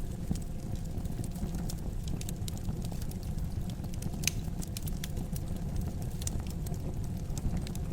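Wood fire crackling in a fireplace: a steady low rumble of flame with scattered sharp pops and snaps, one louder pop about four seconds in.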